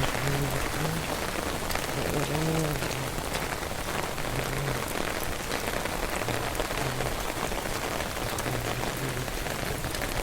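Heavy rain pouring steadily onto surfaces.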